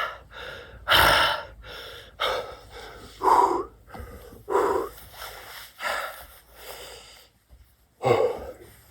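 A man breathing hard and gasping while doing burpees, a loud exhaled breath about once a second, with a short pause near the end.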